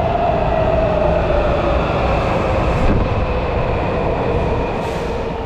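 Subway train running, with a motor whine that falls steadily in pitch as the train slows. The rumble eases off near the end.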